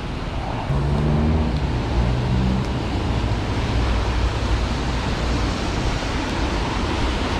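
Road traffic in the rain: a steady hiss of wet tyres and spray, with a vehicle engine's low hum coming in about a second in and fading away over the next few seconds.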